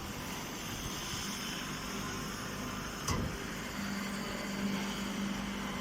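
Chopped hay compress baler running: a steady machine drone with a hum that comes up about four seconds in, and one brief knock about three seconds in.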